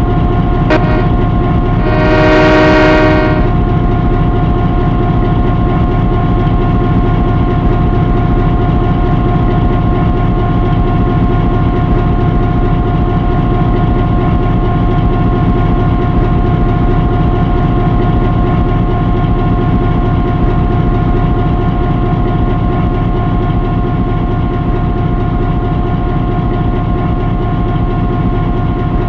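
Locomotive engine running steadily with a constant drone, and one horn blast of about a second and a half, about two seconds in.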